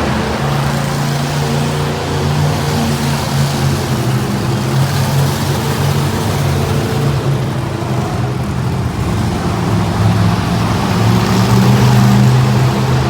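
Monster truck engine running, a steady low note with small shifts in pitch that grows slightly louder near the end.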